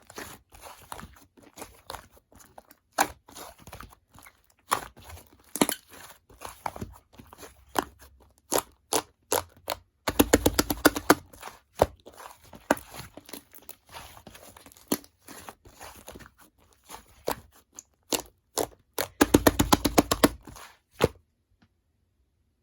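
Slime being squeezed and pressed by hand, trapped air popping in sharp clicks and pops, with two fast runs of rapid clicking, about ten seconds in and again near the end.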